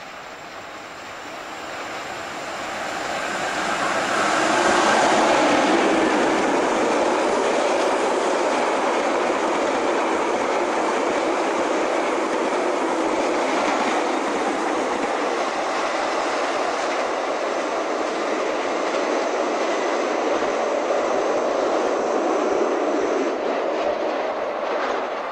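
A passenger train approaching and passing at speed, wheels on the rails. The rush of noise builds over the first five seconds as it nears, then holds steady while the carriages go by, easing off near the end.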